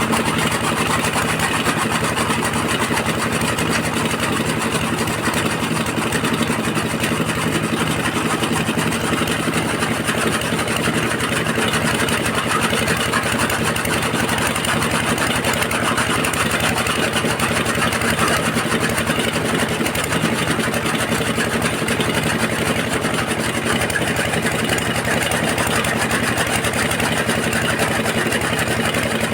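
Stationary diesel engine running steadily at a constant speed.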